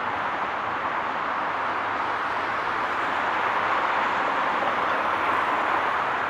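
Steady highway traffic noise: a continuous wash of tyre and engine sound from passing vehicles, with the level swelling slightly toward the end and no single vehicle standing out.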